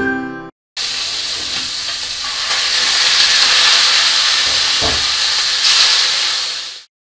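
Chicken pieces frying in a pan of hot oil: a loud, steady sizzle, with a brief knock about five seconds in.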